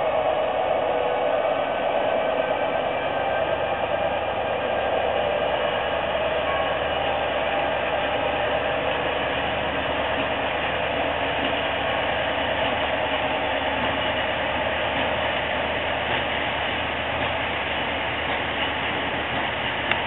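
Siemens Eurorunner (ER20) diesel-electric locomotive running under power as it hauls a train of loaded spoil wagons past. Its engine hum is plain in the first couple of seconds, then gives way to a steady rumble of wagon wheels rolling on the rails.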